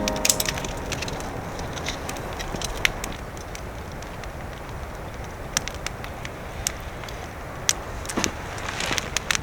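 Wood campfire crackling, with irregular sharp pops over a steady low hiss.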